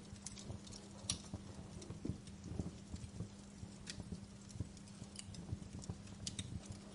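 Wood fire burning in a fireplace, crackling with irregular sharp snaps and pops over a steady low hum.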